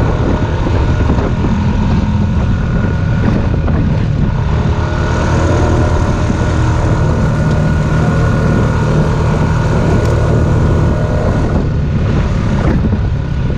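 An ATV engine running steadily at cruising speed along a trail, with a constant low drone throughout.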